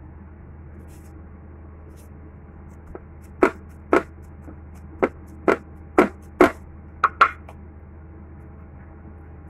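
Knife chopping on a cutting board: about eight quick, sharp strokes, roughly two a second, then it stops.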